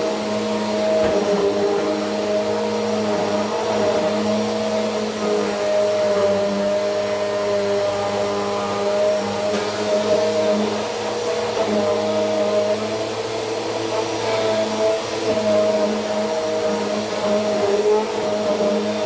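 Vacuum cleaner running on a rug: a steady, loud motor hum with a constant whine, its level wavering slightly.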